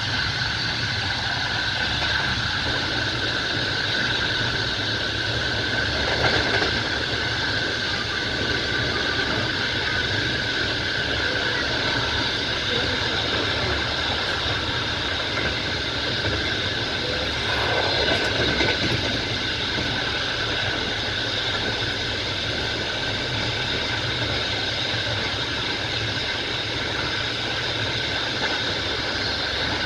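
Train wheels running along the rails, a steady rumble and rattle heard from inside the moving carriage, briefly louder about six seconds in and again around eighteen seconds.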